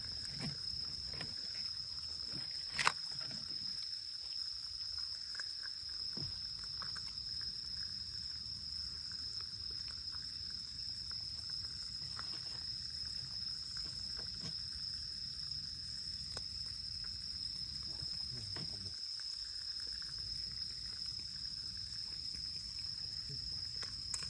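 Crickets or other insects singing a steady, unbroken high trill, with scattered faint crackles and one sharp snap about three seconds in from the wood fire.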